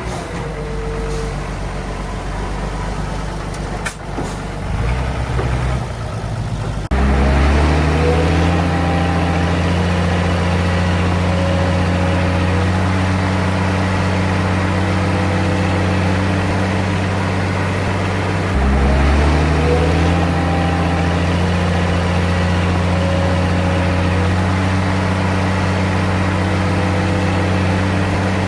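Heavy diesel engine of earthmoving equipment running, then revving up sharply about a quarter of the way in, its pitch climbing and then holding steady under load. About two-thirds through it dips briefly and climbs again.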